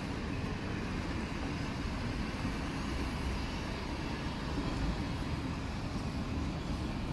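A freight train of empty flat wagons rolling past, giving a steady running noise of wheels on the rails.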